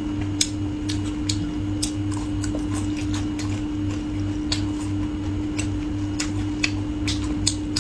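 Crisp, irregular crunches of someone chewing small dried fish and shrimp, over a steady low hum.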